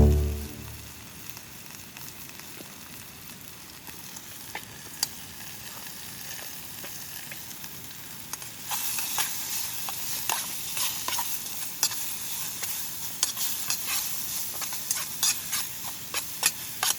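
Food frying in a pan over a campfire: a steady sizzle that grows louder about halfway through, with frequent sharp pops of spitting fat.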